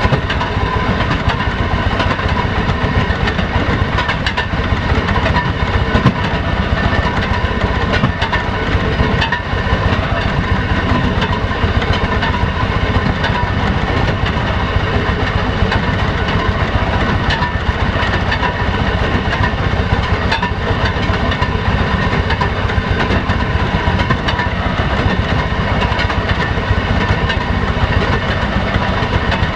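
A railroad motorcar's small engine running steadily as the car travels down the track, with its wheels clicking and rattling on the rails.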